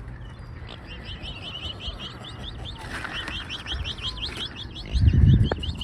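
A bird chirping rapidly and steadily, about five short high chirps a second, starting just under a second in. A brief low rumbling thump about five seconds in is the loudest sound.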